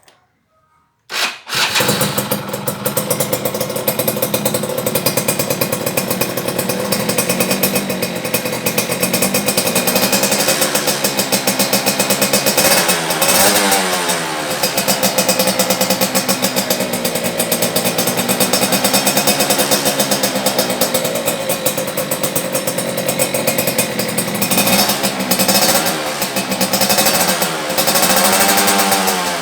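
Yamaha F1ZR two-stroke single-cylinder motorcycle with a WRS standard racing exhaust starting about a second in, then running with the throttle blipped several times, the revs rising and falling.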